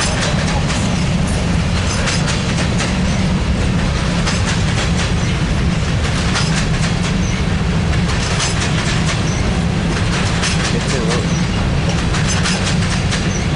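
Freight train cars rolling past close by, a steady heavy rumble with the wheels clicking and clacking over the rail joints.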